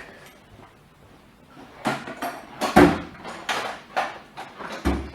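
Hand tools being handled and put away: a quick series of knocks and clatters that starts after a quiet second or so.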